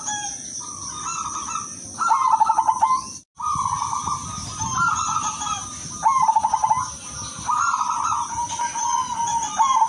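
A silver zebra dove (perkutut) cooing in repeated phrases every second or two. Each phrase opens with a quick stuttering run of notes and ends in a longer coo. A steady high-pitched tone sits behind it, and the sound cuts out completely for a moment about a third of the way in.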